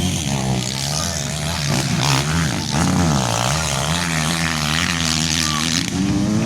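Motocross motorcycle engines revving as the bikes race, the pitch rising and falling over and over as riders open and close the throttle, with more than one engine heard at once.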